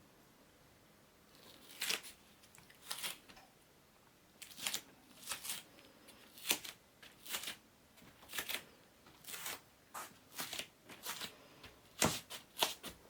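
A faint run of short scratching or rustling strokes, about one a second, starting a second and a half in.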